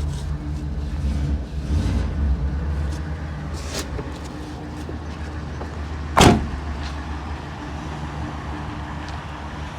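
Ford E-450 bucket truck engine idling steadily, with a single sharp knock about six seconds in and a few lighter clicks.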